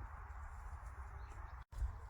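Steady outdoor background noise with a low rumble, cut to silence for an instant near the end.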